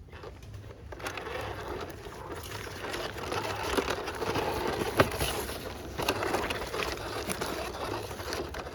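Rustling handling noise with scattered clicks that builds about a second in, with one sharp click about five seconds in.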